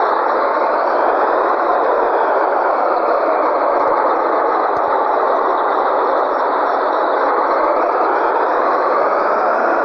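Scania 113G truck running, a loud steady noise that slowly rises and falls a little in pitch.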